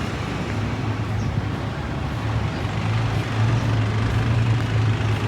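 Motor vehicle running on the road: a steady low engine hum under road noise.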